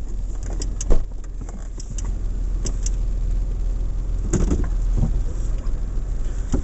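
Steady low rumble of a car heard from inside the cabin, with scattered light clicks and a single sharp thump about a second in.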